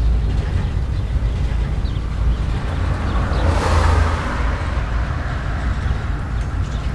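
Freight train of boxcars rolling past with a steady low rumble. About three and a half seconds in, a car drives by close, its tyre noise swelling and then fading.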